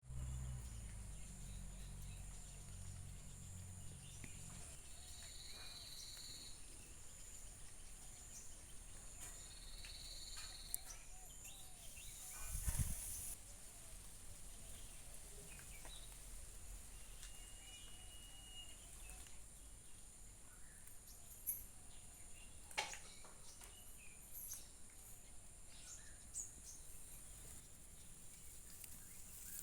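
Rural outdoor ambience dominated by a steady high-pitched drone of insects, with a few short bird calls over it. There is a low rumble in the first few seconds, a brief loud rustling thump a little before halfway, and a few sharp clicks in the second half.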